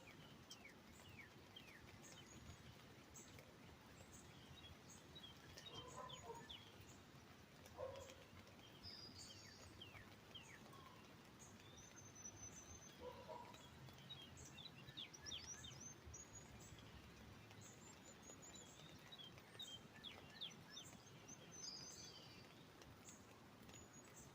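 Faint bird chirps and calls, many short quick falling notes, with a few short lower notes here and there, over a faint steady hiss.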